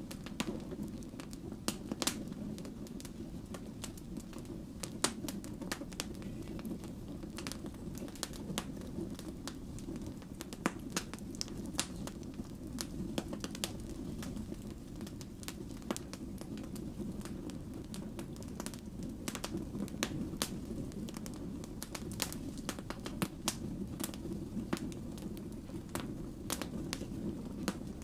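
Wood fire burning steadily, with a low rumble of flames and frequent irregular sharp pops and crackles from the burning logs.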